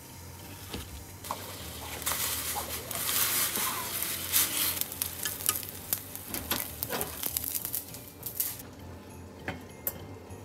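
Food sizzling in a hot pan while being stirred, with scattered clicks of the utensil against the pan. The sizzle swells about two seconds in and eases off near the end.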